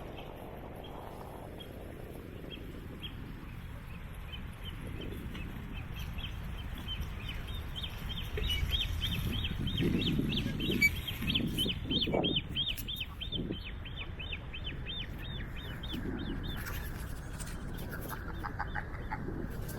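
A bird calling a fast run of repeated high chirps, about four a second, for several seconds in the middle, over a low rumble of wind and tyres from the moving bicycle.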